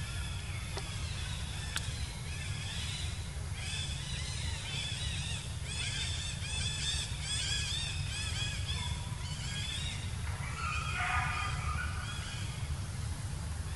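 Birds chirping in quick, repeated high notes, over a steady low rumble, with a lower call cluster about eleven seconds in.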